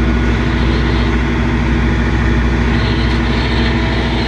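Tractor engine running steadily as the tractor turns over soil in a dirt pile.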